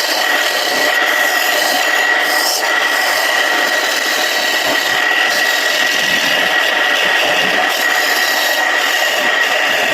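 Homemade wood lathe running with a tool or sandpaper held against the spinning surian wood: a steady rubbing, scraping noise over a constant high whine.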